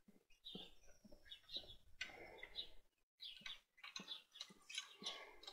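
Faint chirping of small birds: many short high calls.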